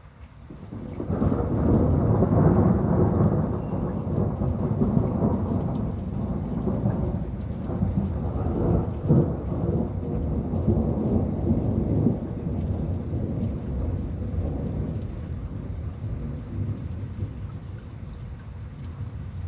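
A long roll of thunder that swells up about a second in, rumbles deeply for over ten seconds with a few louder surges, and slowly dies away.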